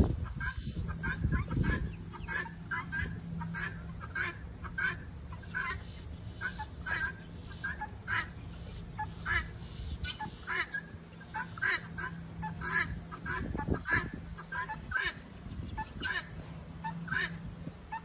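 Birds calling: a long run of short honking calls, about two a second, over a faint steady low hum.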